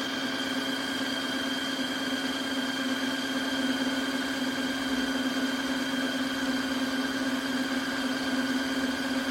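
Tineco iFLOOR 3 wet-dry vacuum running its self-cleaning cycle at the brush-roller stage: a steady motor hum with a high whine over it. The clean-water tank is empty, so the cycle is running dry.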